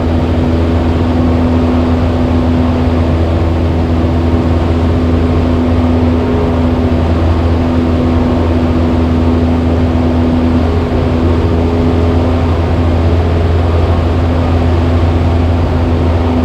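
Cessna 172's piston engine and propeller droning steadily in level cruise flight.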